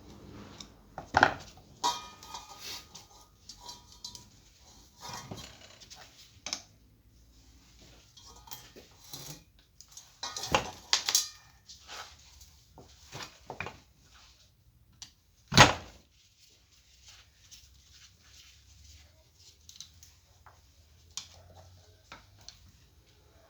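Metal parts and tools clinking and knocking as they are handled during work on an industrial fan, in irregular bursts, with one sharp, loud knock about two-thirds of the way through.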